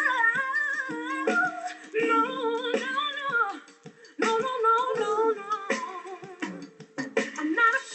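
A woman singing wavering vocal runs in short phrases, with brief pauses between them.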